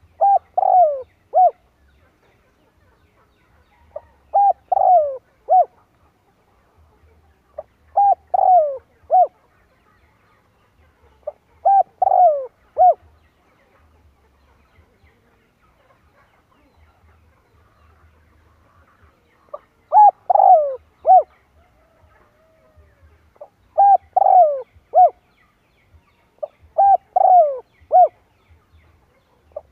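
Spotted dove cooing: phrases of three notes (a short coo, a longer coo that falls in pitch, then a short final coo) repeated about every four seconds, with one longer pause midway.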